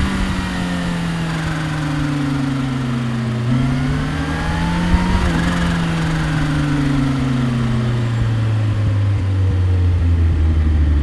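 Kawasaki Ninja H2's supercharged inline-four engine and exhaust on the road, the engine note falling as the throttle is rolled off. It picks up briefly once, about three and a half seconds in, then falls again and settles low and steady near the end.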